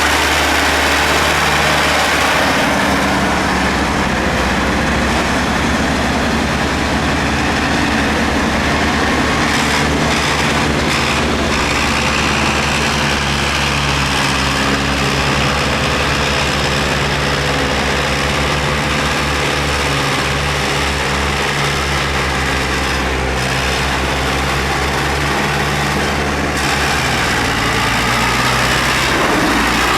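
Tractor engine running steadily, its note changing about 26 seconds in.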